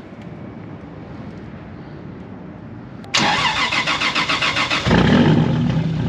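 Turbocharged Toyota Supra's inline-six being started through its new custom-built exhaust. The starter cranks briskly for about two seconds, then the engine catches with a loud flare near the end and settles into a steady idle.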